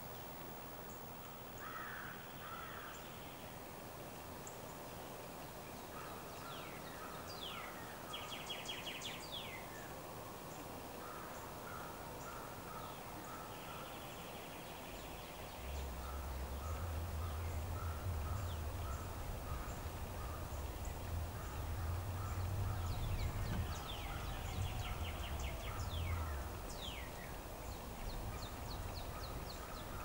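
Several wild birds calling: rows of short chirps, quick falling whistles and brief trills, scattered through. About halfway in, a low rumble comes in under the birdsong and stays.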